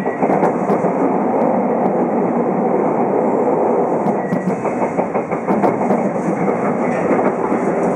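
Running noise of a JR Kyushu 817 series electric train heard from inside the passenger car: a steady rumble of wheels on rails with faint scattered clicks.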